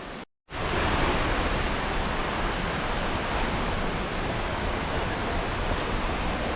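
Rushing water of a waterfall: a loud, steady, even rush that cuts in after a brief gap of silence near the start.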